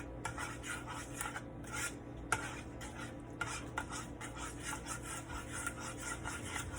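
A utensil stirring and scraping in a cooking pan, many short irregular scrapes and clicks, over a steady low hum.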